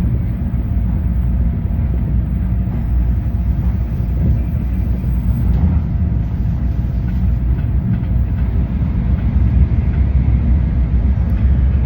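Japanese Shinkansen bullet train running at speed: a steady, even low rumble.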